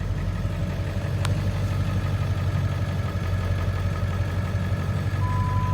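1999 Ford F-350's 7.3 Power Stroke turbo diesel idling steadily. There is a single sharp click about a second in, and a steady door-open chime beep starts near the end.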